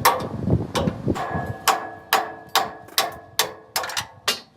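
Hammer blows on steel, about a dozen evenly paced strikes at a little over two a second, each leaving a brief metallic ring.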